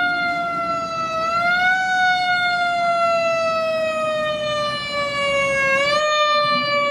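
Federal Q mechanical siren on a 1996 KME fire engine wailing. Its pitch winds up about a second in, then slowly winds down, and picks up again slightly near the end. The truck's engine and road noise rumble underneath.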